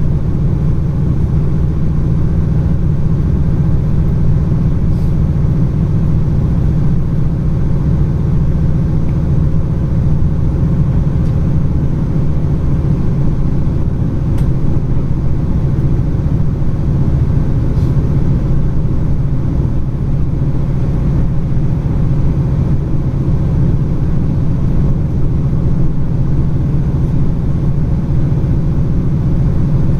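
Train running steadily along the line, a constant low rumble with a few faint ticks.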